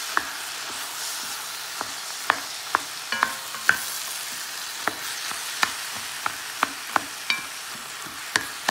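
Mince and onions sizzling steadily in an enamelled cast-iron casserole while a wooden spoon breaks up the mince. The spoon knocks sharply against the pot about a dozen times at irregular intervals.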